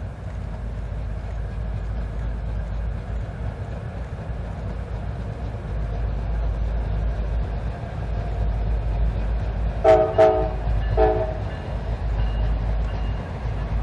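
Diesel train running with a steady low rumble, and its locomotive horn sounding three short blasts about ten seconds in: two close together, then a third a moment later.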